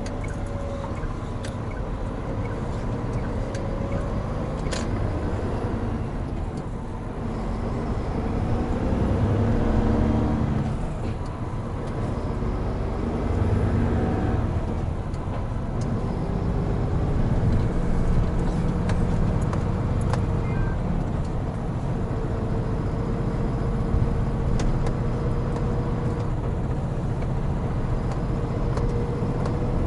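Hino Profia heavy truck driving: a steady diesel engine drone mixed with road noise, and a faint whine that rises and falls as the truck speeds up and slows.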